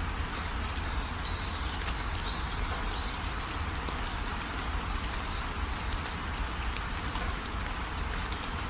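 Steady rain falling, with scattered drops ticking and a low rumble underneath, while small birds chirp in short, high, wavering calls over it.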